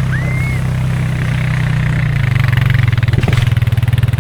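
Four-wheeler (ATV) engine running steadily, its note turning into a throbbing pulse about two seconds in.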